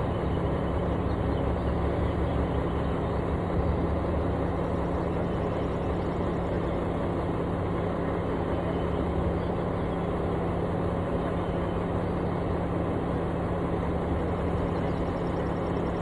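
Diesel engine of a piece of construction equipment running steadily at constant speed, a low, even hum with no revving.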